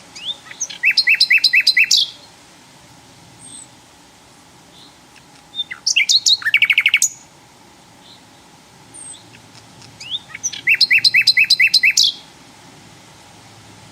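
Sikatan londo flycatcher singing: three short song phrases about five seconds apart, each a quick run of repeated sharp, whistled notes, with faint high chips in between.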